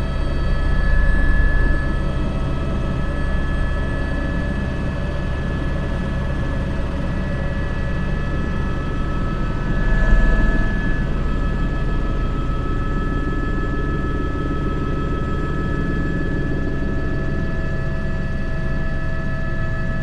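Airbus H125 (AS350 B3) helicopter heard from inside the cockpit in flight: a steady turbine whine over the low, continuous beat of the rotor, swelling briefly about a second in and again around ten seconds in.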